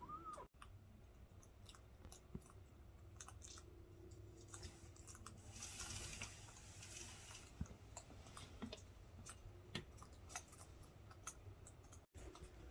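Near silence: a faint low hum with scattered small clicks, and a soft hiss swelling and fading about six seconds in.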